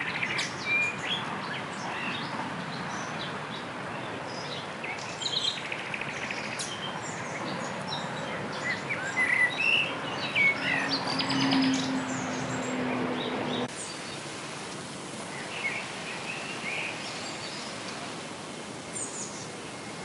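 Several wild birds singing and calling in short chirps and trills over a steady outdoor hiss, busiest about halfway through. About two-thirds of the way in the background changes and the birdsong becomes sparser.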